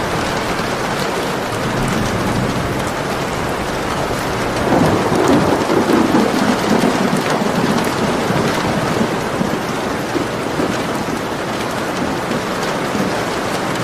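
Steady rain falling, with a low rumble of thunder that swells about five seconds in and fades a few seconds later.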